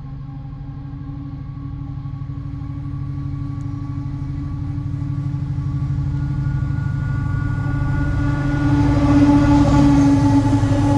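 Diesel train approaching and growing steadily louder. Its engine holds one steady note over a low rumble.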